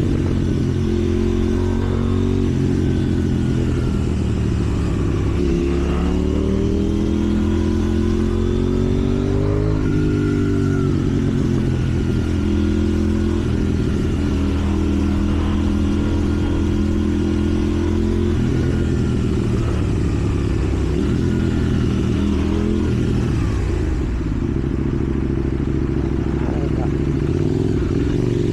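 KTM 790 Duke's parallel-twin engine running while riding in traffic, revs rising and falling several times with throttle and gear changes, and steadier stretches between.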